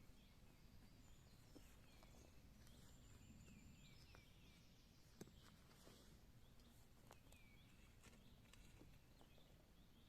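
Faint birdsong: several small birds chirping and calling over a low outdoor hush, with scattered light clicks and one sharper click about five seconds in.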